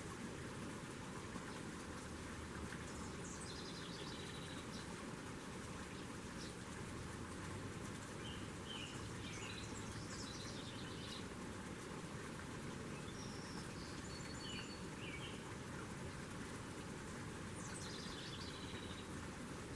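Small songbirds chirping in short high-pitched runs, about four times, over a steady outdoor hiss.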